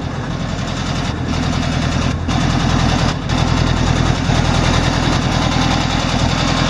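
Air-cooled flat-four engine of a 1963 Volkswagen Type 2 bus idling with a steady, rapid exhaust pulse, getting louder over the first few seconds.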